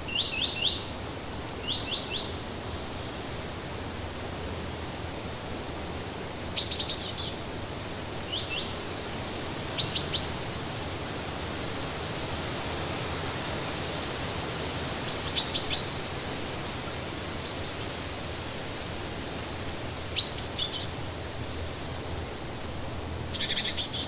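Songbirds singing in the forest: short phrases of three or four quick, high chirps every two to five seconds, the loudest about seven and ten seconds in, over a steady hiss.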